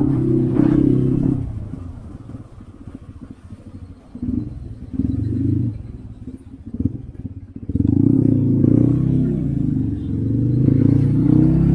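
Motorcycle engine running in traffic: it settles to a pulsing idle for a couple of seconds, gives a few short throttle blips, then pulls away under throttle again for the last few seconds.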